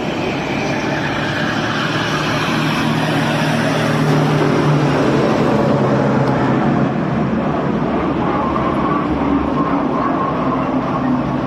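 Engine of a vintage military vehicle running steadily as it drives past, with a low engine hum whose note changes about six seconds in.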